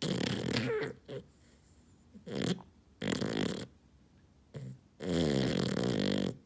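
Sleeping six-month-old puppy snoring: a run of loud, uneven snores and short snorts, the last and longest, about a second and a half, carrying a steady pitched tone.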